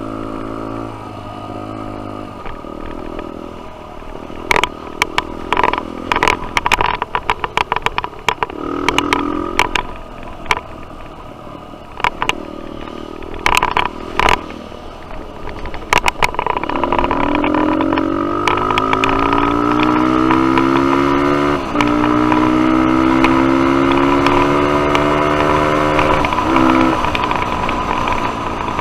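Suzuki DR-Z125 dirt bike engine running on a trail, with a stretch of sharp knocks and rattles in the middle. Later the engine revs climb steadily, with two sudden drops in pitch as it shifts up a gear.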